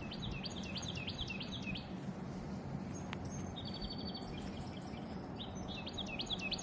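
A songbird singing: a quick series of about six repeated high notes near the start and again near the end, with a different buzzy trilled phrase between, over a steady background hiss.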